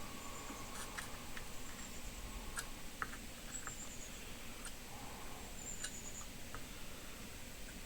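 Faint, irregular small ticks and clicks from hands-on soldering work on a circuit board, with a few short high squeaks and a faint steady high-pitched whine underneath.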